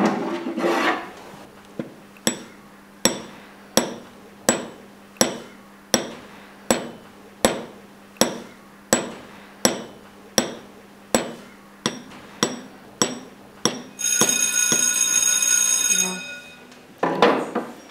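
A hammer strikes a metal chisel at an even pace, about one blow every three-quarters of a second, each blow with a short metallic ring. The hammering stops about fourteen seconds in, and a steady high ringing follows for about two seconds.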